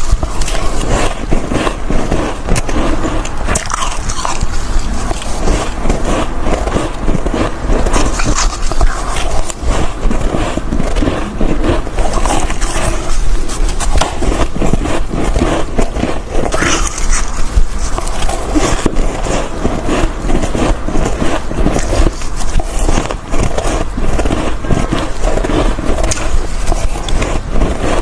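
Close-miked biting and chewing of soft, frosty white ice chunks: a continuous run of crisp crunches and crackles.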